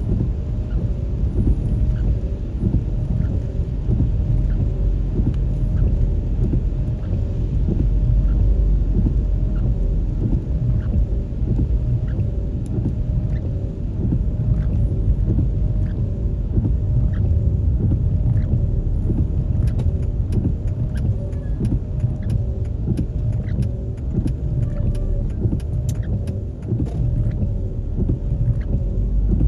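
Steady low rumble of road and engine noise from a moving vehicle, with scattered light ticks that come more often in the last third.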